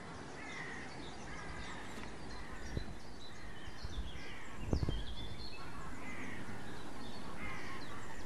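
Outdoor ambience fading in gradually, with several birds chirping and singing in short calls over a low background rumble. There are two brief low thumps, one near three seconds in and one just before five seconds.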